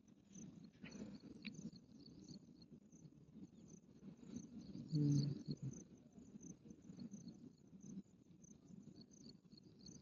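Crickets chirping steadily in the background, with low handling rustle from work on wires and a short, louder low-pitched sound about five seconds in.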